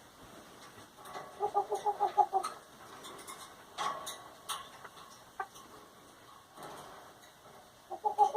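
A pet bird calling in a rapid run of short pitched notes, about six or seven a second, a little over a second in and again briefly near the end, with scattered small clicks and taps between.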